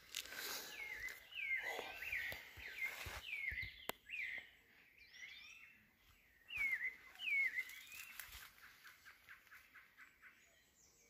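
Birds calling: a string of short, sharp chirps, each dipping and then rising in pitch, followed near the end by a fast series of ticking notes.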